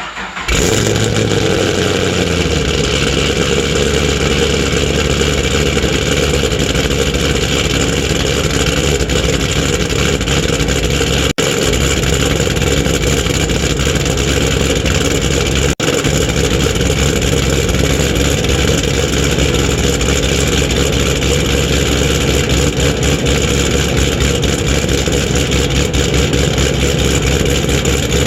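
2014 Camaro SS's 416-cubic-inch stroked LS3 V8 catching on a cold start, its speed flaring and then falling over the first couple of seconds before it settles into a steady, loud idle.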